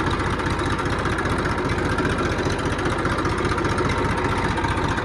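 Engine running steadily, its rapid firing pulses even and unbroken throughout.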